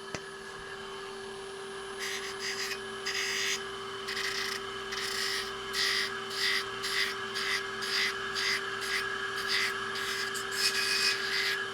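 Surface grinder running with a steady hum. From about two seconds in, its grinding wheel starts just touching the table surface, giving short scraping bursts about twice a second.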